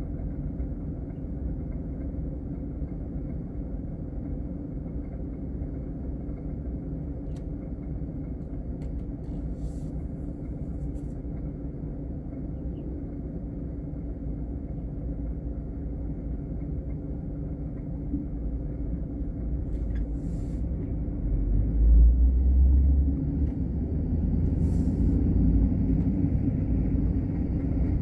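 Steady low engine and road rumble heard from inside a moving car, swelling louder about three quarters of the way through.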